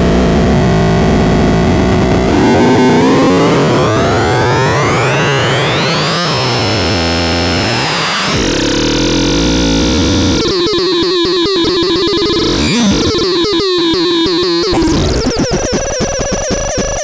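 Synthesizer making harsh, noisy electronic tones: a long sweep rising in pitch over several seconds that then holds high, followed by a fast stuttering, pulsing pattern.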